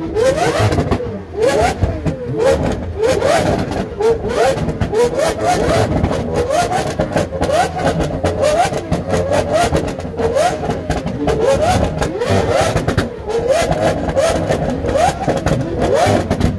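Lamborghini Aventador's V12 revved repeatedly while parked: a quick run of short rising blips, one after another, more than once a second.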